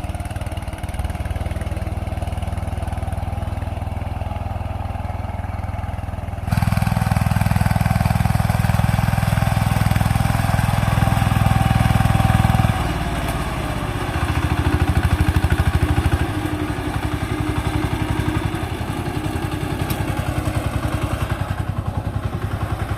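Mini tractor's diesel engine running steadily. It gets noticeably louder about six seconds in, eases off around thirteen seconds, rises briefly again a little later, then settles back to a steady run.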